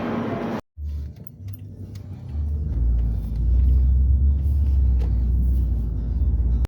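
Deep, uneven rumble of a moving vehicle, swelling about two seconds in and staying loud. It is cut off abruptly near the start and at the end.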